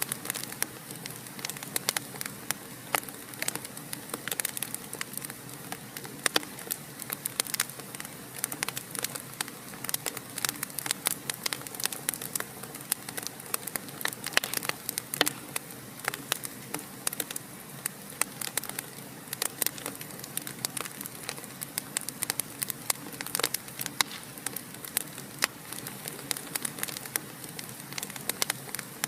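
Fireplace fire crackling continuously: frequent irregular sharp pops and snaps over a soft steady hiss.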